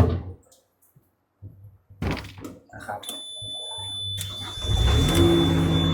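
A thunk and a few knocks, then a steady high warning tone about three seconds in. Near the end the skid steer's four-cylinder turbo diesel cranks, catches with a rising note and settles into a steady idle.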